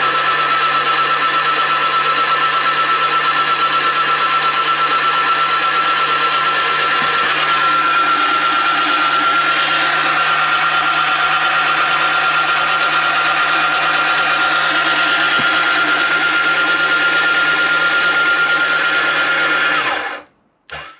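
Yamaha VX110 jet ski engine turned over on its electric starter motor to pump fresh oil around: a steady high-pitched starter whine with a fast, even pulsing, rising slightly in pitch, that cuts off about 20 seconds in, followed by one brief short sound.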